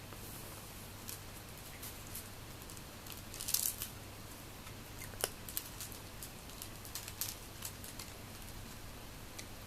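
Cats eating, with scattered small crunches and clicks, a short flurry of them about three and a half seconds in and a sharper click about five seconds in, over a low steady hum.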